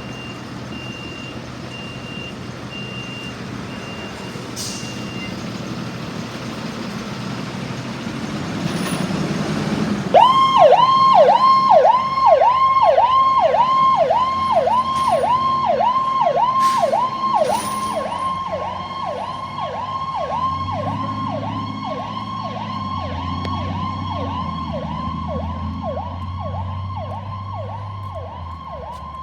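Fire apparatus pulling out: a diesel engine running with a repeated warning beeper for the first few seconds, then the engine revving up. About a third of the way in, an electronic siren starts in a fast yelp, sweeping up and down about two and a half times a second, and keeps going over the engine.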